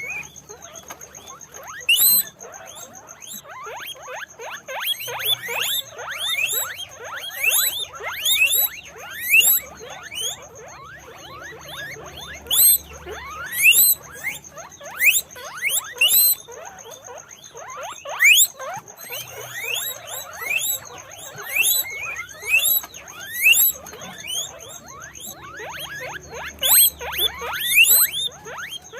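Several guinea pigs squeaking (wheeking) over and over: many short, shrill calls that each sweep up in pitch, often overlapping, with louder peaks every second or two.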